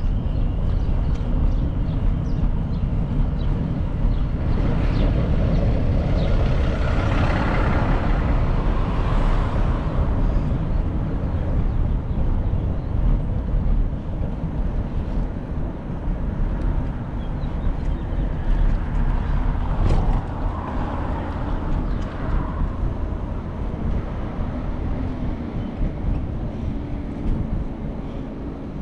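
City street traffic with a vehicle passing, heard over a steady low rumble of wind on the microphone from riding a bicycle. A sharp click sounds about two-thirds of the way through.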